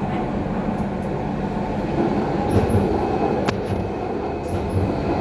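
Docklands Light Railway train running along the track: a steady rumble of wheels and running gear, with a single sharp click about three and a half seconds in.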